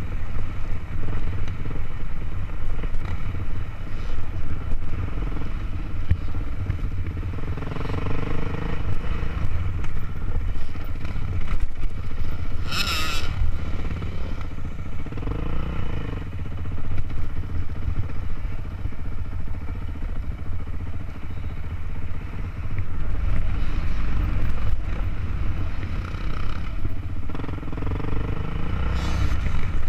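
Dirt bike engine running under way on a rough trail, rising and falling in pitch several times with the throttle, heard from the rider's own bike with a steady low rumble. A brief hiss cuts across it near the middle.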